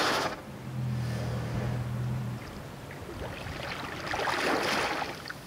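Water splashing and sloshing around a bowhead whale's head as it surfaces among ice, swelling about four seconds in. A low steady hum is heard for about two seconds near the start.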